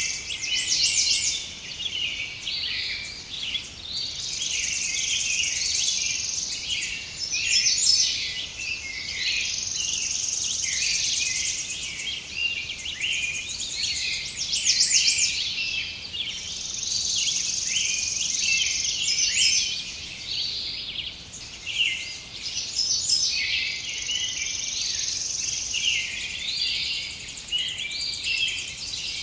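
A chorus of many songbirds chirping and singing over one another in a forest, joined by an insect's high steady trill that starts and stops every few seconds.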